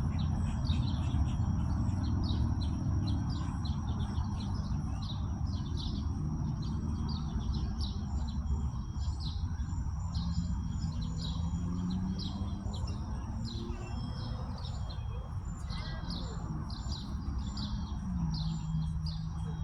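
Small birds chirping over and over in quick short notes, with a thin steady high tone and a low rumble underneath.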